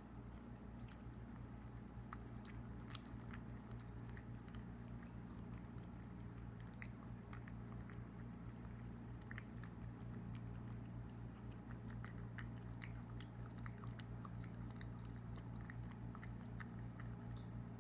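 A kitten chewing and lapping wet cat food: a run of small, irregular clicks and smacks, over a steady low hum.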